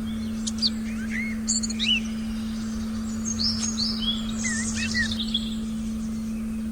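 Forest birds chirping, a run of short, quick rising and falling calls over about five seconds, above a steady low electronic tone.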